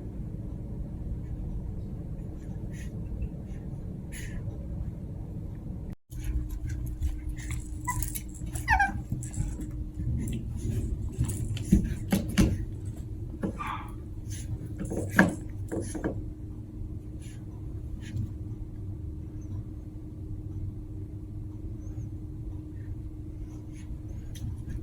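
Chihuahua puppies at play: scattered clicks and knocks with a few short high squeaks or whimpers over a steady low hum.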